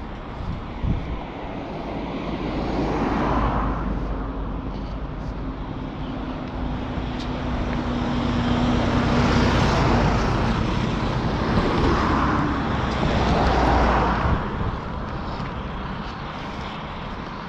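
Motor vehicles passing on a road close by, their tyre and engine noise swelling and fading several times: once about three seconds in, then again more loudly in the middle.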